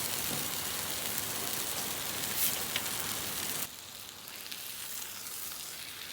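Food sizzling in a pan over a campfire, a steady hiss that drops suddenly to a quieter level about three and a half seconds in.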